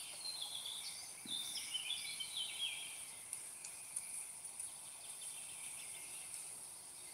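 Outdoor ambience of a small bird singing short phrases of chirps, busiest in the first three seconds, over a steady high-pitched insect hum.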